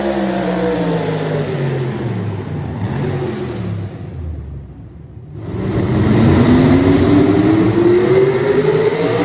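Small-block V8 pulling-truck engine at high revs: its pitch falls and the sound fades to a low about five seconds in, then it climbs steadily back up in pitch and loudness to a hard rev near the end.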